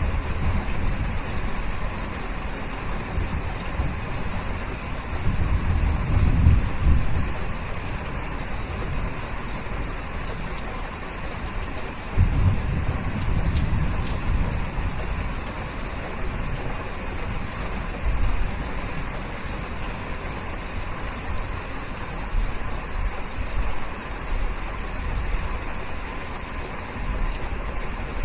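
Steady heavy rain with low rumbles that swell twice, about five and twelve seconds in.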